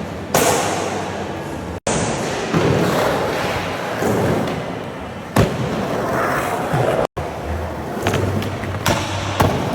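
Skateboard wheels rolling on a hard surface with a steady rumble, broken by sharp board pops and landing slams: one about half a second in, a loud one about five and a half seconds in, and two more near the end. The sound cuts out abruptly twice.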